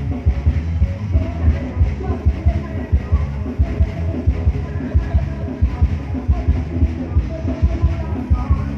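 Loud live band music over a concert sound system, driven by a steady, heavy bass-drum beat.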